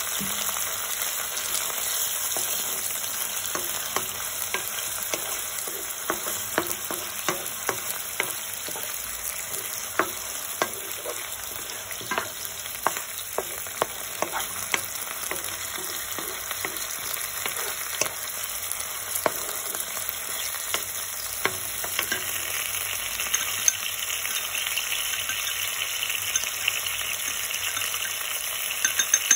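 Diced onions and boiled eggs sizzling steadily in soy sauce in a hot nonstick pan, stirred with a wooden spoon that taps against the pan many times, roughly once a second.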